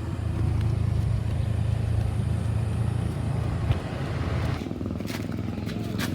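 Steady low hum of a running engine, easing off about four and a half seconds in, with a few light clicks near the end.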